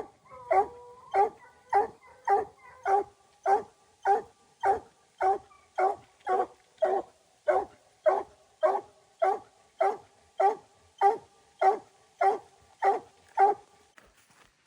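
Coon-hunting hound barking in a steady, even rhythm, about one bark every 0.6 seconds, stopping shortly before the end. A fainter, wavering higher call sounds under the barks for the first few seconds.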